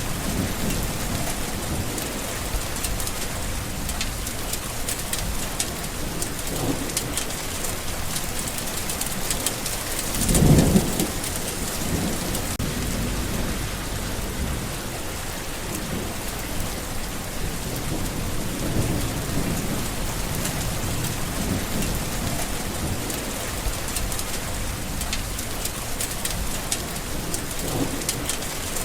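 Steady rain falling, with a louder low rumble swelling briefly about ten seconds in and fainter low swells elsewhere.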